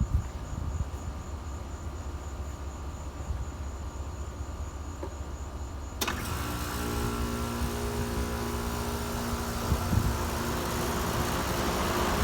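2015 Carrier Comfort Series 4-ton heat pump outdoor unit starting up. After a few seconds of low rumble it kicks on suddenly about six seconds in, with a steady machine hum of several tones. A rush of air from the fan grows louder toward the end.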